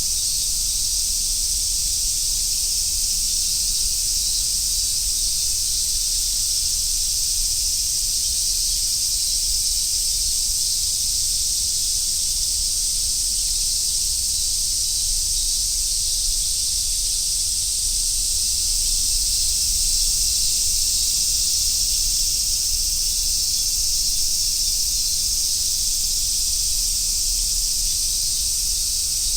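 Chorus of summer cicadas, including large brown cicadas (aburazemi), singing in a steady, unbroken high-pitched drone with no pauses.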